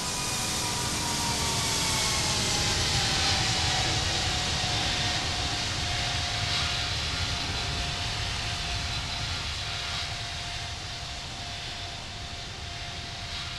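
Airbus A330neo jetliner passing overhead, its Rolls-Royce Trent 7000 turbofans roaring with a whine that falls in pitch as it goes by. The sound swells to its loudest about three seconds in, then slowly fades.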